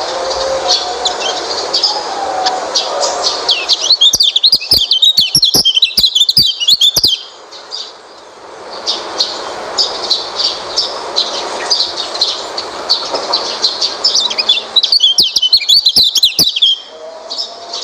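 White-eye (pleci) song: a fast, continuous stream of high chirps and twitters. It breaks twice into louder, busier bouts of warbling, about four seconds in and again around fifteen seconds in, with sharp clicks during those bouts.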